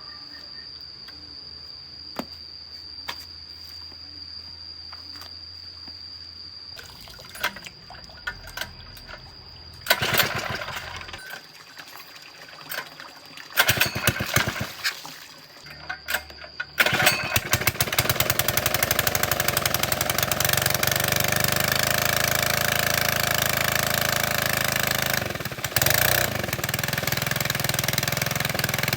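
Small petrol engine of a water pump, fitted with a freshly cleaned carburetor: a couple of short noisy bursts, then about two-thirds of the way through it starts and keeps running steadily.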